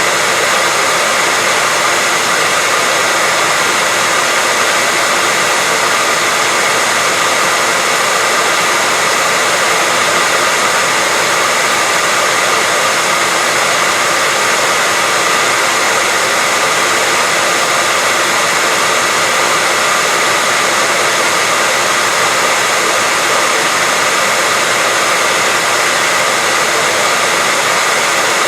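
Hair dryer blowing steadily: a constant rush of air with a faint high motor whine near 2 kHz and no change in speed.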